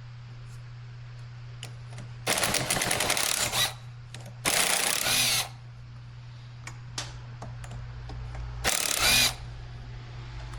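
Power driver run in three short bursts, the first about a second and a half long and the last about half a second, backing out the bolts of a Suzuki DR650's front sprocket cover. A few small clicks fall between the bursts, over a steady low hum.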